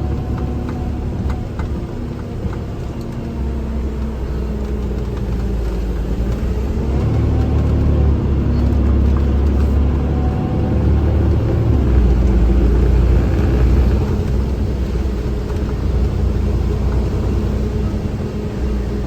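Vehicle engine and road rumble heard from inside the cab while driving, a steady low drone that grows louder in the middle.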